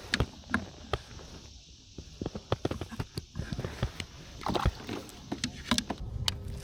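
Irregular knocks and clicks of gear being handled in a kayak, with a quick run of small clicks in the middle.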